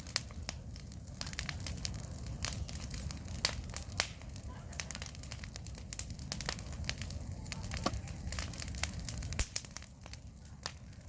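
Wood fire crackling: irregular snaps and pops over a steady low rumble of burning, with a few louder pops about three and a half and four seconds in.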